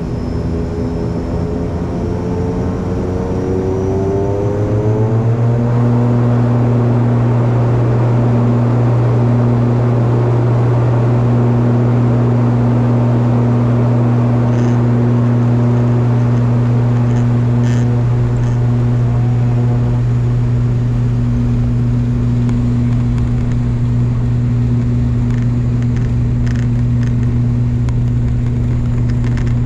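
ATR 42-500's twin turboprop engines and propellers heard from the cabin, spooling up for takeoff. Over the first five seconds the hum rises in pitch and grows louder, then settles into a loud, steady low drone at takeoff power.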